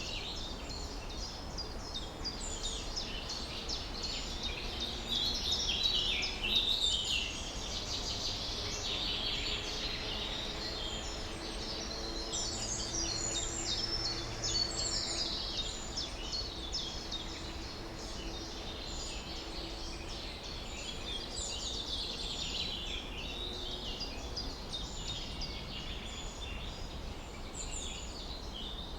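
Many small birds chirping and twittering at once in a dense, overlapping chorus, over a steady low rumble of background noise. A faint low hum runs under it through the middle stretch.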